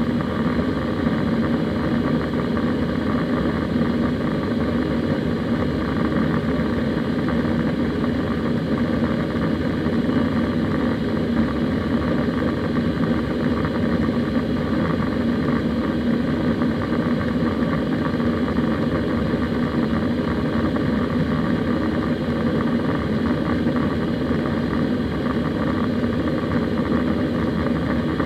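Steady drone of an Airbus A320 in flight, heard from inside the passenger cabin: engine and airflow noise with an even low hum, unchanging throughout.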